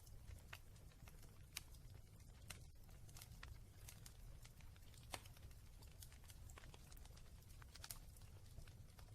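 Wood fire in a fireplace crackling faintly: irregular sharp pops and snaps, a few louder than the rest, over a low steady rumble.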